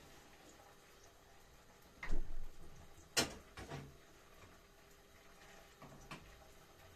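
A few short household knocks and clicks: a thud about two seconds in, a sharp click a second later with a lighter knock after it, and faint knocks near the end.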